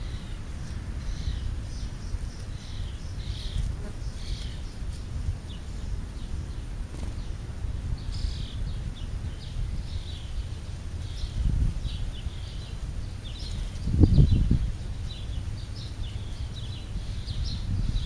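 Small birds chirping in quick short notes again and again, over a steady low rumble of outdoor noise. A louder low thump stands out about fourteen seconds in.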